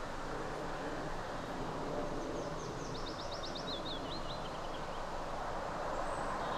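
Steady outdoor background noise with a bird singing one short song about two seconds in: a quick run of high repeated notes that steps down in pitch toward its end.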